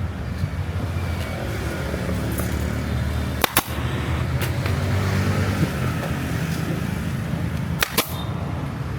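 Steady low rumble of motor vehicles running, with two sharp double clicks, one about a third of the way in and one near the end.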